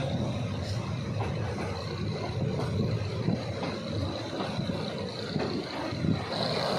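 Passenger train running: a steady low rumble with a thin, steady high-pitched whine over it.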